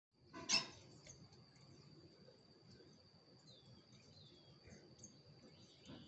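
Faint countryside ambience: a sharp knock about half a second in, then a steady thin high-pitched tone, low rumble, and a few short, faint bird chirps near the middle.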